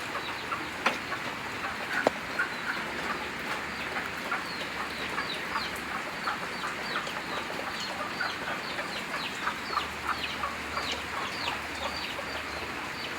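Chickens: a steady stream of short, high peeps and chirps at several a second, with two sharp knocks in the first two seconds. No engine is running.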